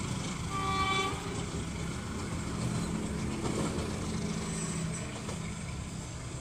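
Train locomotive's horn giving a short blast about half a second in, followed by the low rumble of the train running on the track, slowly fading.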